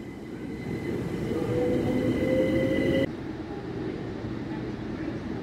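Electric train pulling away, a whine rising in pitch over growing running noise. About three seconds in the sound drops off abruptly, leaving a lower, steady rumble.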